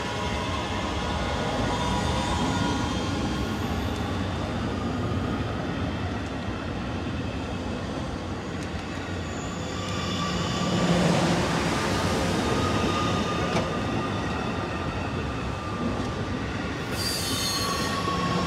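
MR-90 electric multiple-unit commuter train pulling out of the station, with a steady electric whine and wheels squealing on the rails. It grows louder about eleven seconds in as it picks up speed.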